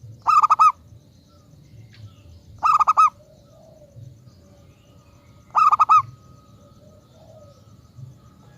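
Zebra dove (perkutut) cooing: three short phrases, each a quick run of about four stuttering notes, a few seconds apart.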